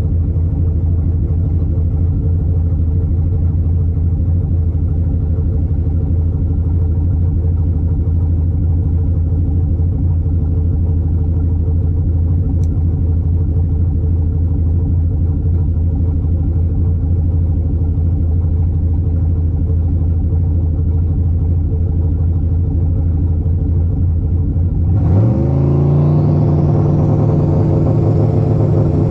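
Truck engine running with a steady low rumble, then revving up sharply about 25 seconds in, its pitch climbing and holding higher.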